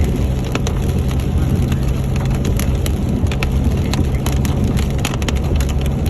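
A vehicle driving in rain: a steady low engine and road rumble, with scattered raindrops ticking sharply on the body and glass.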